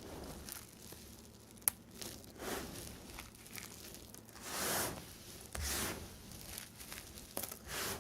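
Knife cutting through bars of soap: a series of short scraping strokes, with a sharp click a little under two seconds in and the longest, loudest stroke around the middle.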